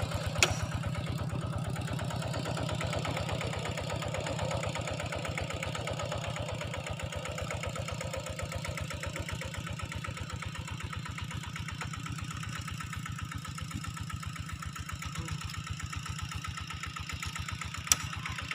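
A small engine idling steadily with an even, regular pulse. Two short, sharp clicks come about half a second in and again near the end.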